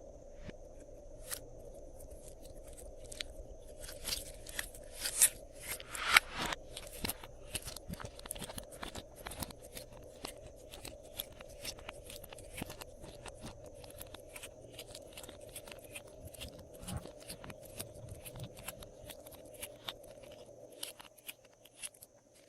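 Slime being worked by hand, with dense sticky crackles and pops that come thickest and loudest about four to six seconds in. A steady faint hum runs underneath.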